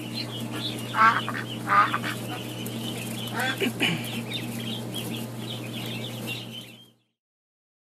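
A brood of ducklings peeping: a constant chorus of short, high cheeps, with a few louder downward-sliding calls about one and two seconds in and again near the middle, over a steady low hum. The sound cuts off about a second before the end.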